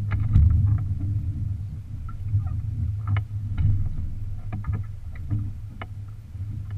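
Low rumble of wind and choppy water around a small wooden sailboat, with a scatter of short knocks and slaps against the hull.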